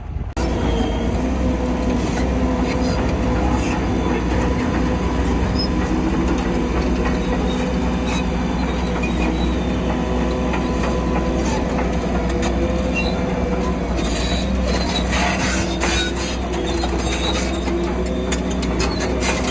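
Shantui crawler bulldozer's diesel engine running steadily under load, with squealing and clanking from its steel tracks. The clanking grows busier about two-thirds of the way through.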